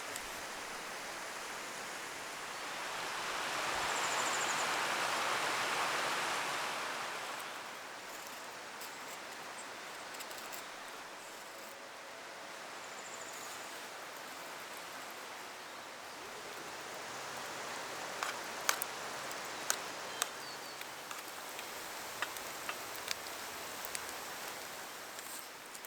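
River water rushing steadily, swelling louder for a few seconds about three seconds in. In the last third, a scatter of sharp clicks and taps.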